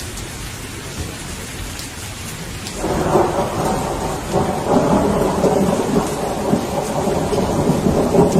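Steady rain falling, with a roll of thunder starting about three seconds in and rumbling on.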